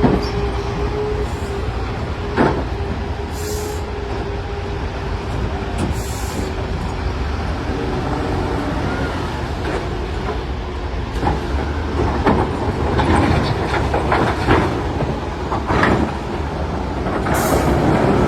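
Caterpillar 966D wheel loader's diesel engine running under load, with a steady whine that fades after about seven seconds. Several sharp knocks of rock against steel are scattered through, more of them in the second half.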